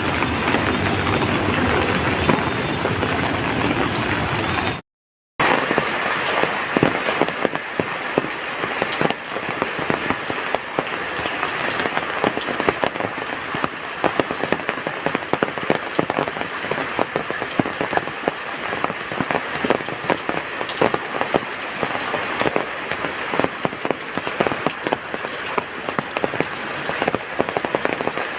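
Heavy rain, with a dense patter of drops striking a surface. The first few seconds hold a steadier, deeper rushing noise; about five seconds in the sound cuts out for a moment, and the rain patter follows.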